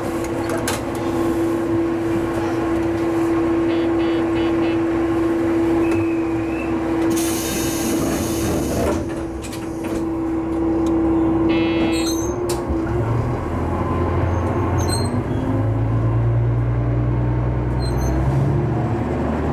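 Diesel railcar under way, with its engine and running gear making a steady drone and a held whine. About two-thirds of the way through, the whine gives way to a lower hum. A short burst of hiss comes near the middle.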